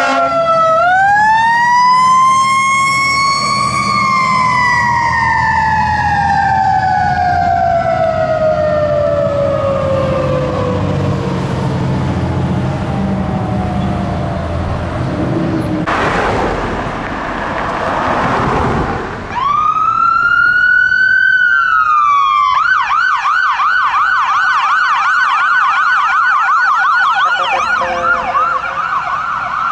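A fire engine's siren winds up and then winds down slowly over about ten seconds, over a low engine rumble. After a brief rush of traffic noise, an ambulance's siren starts with a rising wail and switches to a rapid yelp.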